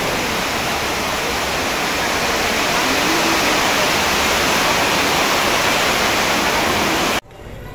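Heavy downpour: a steady, loud rush of rain that cuts off suddenly near the end.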